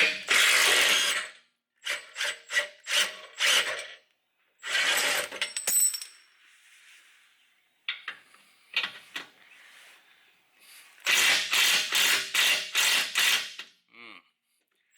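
Hand socket ratchet clicking in bursts of quick back-and-forth strokes, with pauses between runs and a fast run near the end, as bolts on the underside of a Jeep are worked.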